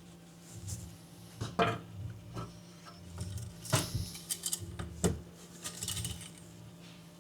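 Light metallic clinks and taps, about five sharp ones spaced through, from handling the engine-oil dipstick of a shut-down diesel engine to check the oil level, over a steady low hum.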